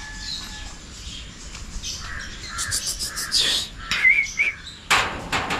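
Birds chirping: two short rising-and-falling chirps about four seconds in, among a few sharp clicks and rustles.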